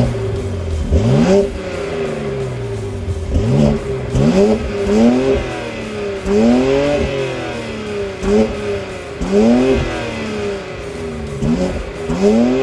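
BMW X3 M's twin-turbo 3.0-litre inline-six engine and exhaust being revved in short blips, about eight of them. Each rev rises and falls back to a steady idle.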